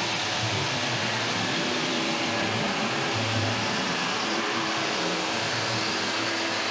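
Electric power tool motor running steadily at an even load, with a thin high whine over a low hum.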